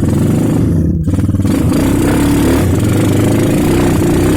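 Motorcycle engine running loud and close under throttle, its pitch shifting as the revs change, with a brief dip about a second in.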